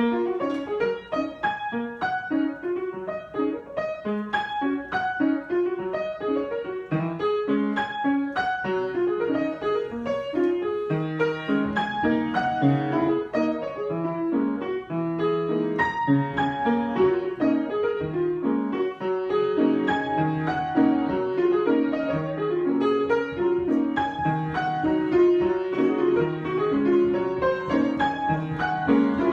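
Piano improvisation: a continuous flow of notes and chords, starting abruptly at the outset.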